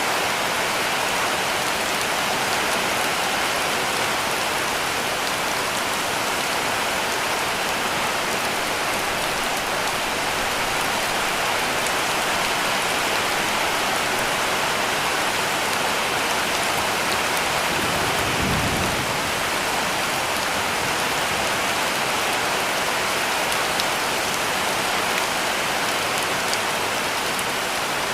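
Heavy rain falling steadily on a cabin roof, with scattered drop ticks. A brief low rumble of distant thunder comes about two-thirds of the way through.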